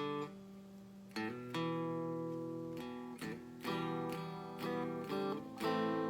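Donner DST1 Strat-style electric guitar playing a sequence of strummed chords that ring out between strokes.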